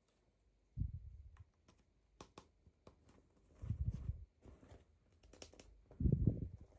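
Small plastic toy pieces and packaging being handled: scattered light clicks and taps, with dull low bumps about a second in, around four seconds, and near the end.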